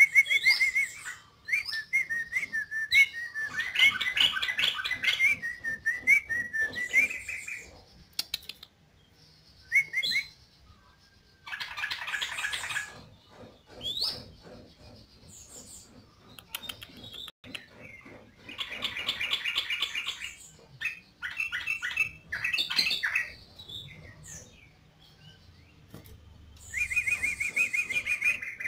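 Yellow-vented bulbul (trucukan) singing in repeated bursts of quick, bubbling, chattering phrases, each one to three seconds long, with short pauses between.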